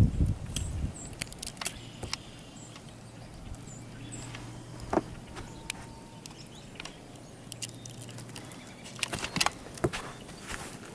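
Irregular footsteps crunching through snow, with scattered sharp clicks and a faint low hum in the middle.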